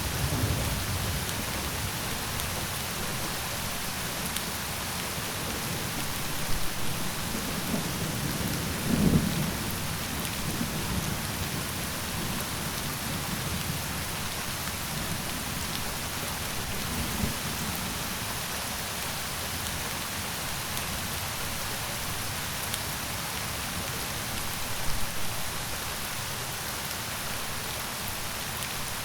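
Steady heavy rain, with low rolls of thunder now and then, the strongest about nine seconds in.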